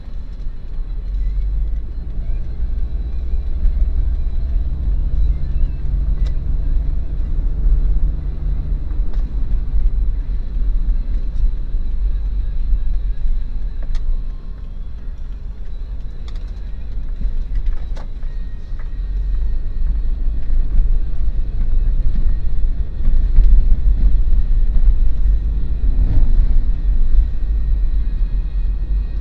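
Daihatsu Terios driving: a steady low road and engine rumble, with a steadier engine note from about four to nine seconds in and scattered faint ticks.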